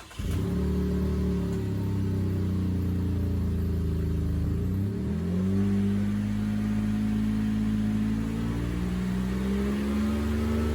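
Chevy Colorado ZR2's 3.6-litre V6 running through its exhaust. It runs steadily with a low, even drone, and the engine speed rises a little about five seconds in and again near the end.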